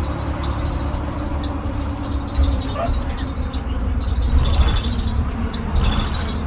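2020 Blue Bird Vision school bus underway, heard from inside the cabin: a steady low engine and road rumble with scattered rattles and clicks.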